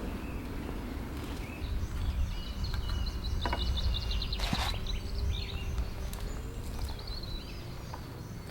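Small songbird singing: a fast trill of high notes lasting a few seconds, with a few shorter high phrases, over a steady low rumble and a few clicks.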